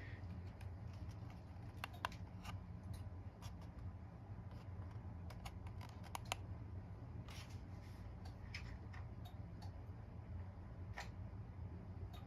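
Monte Carlo Vios ceiling fan running with a steady low hum, with scattered light clicks and ticks over it.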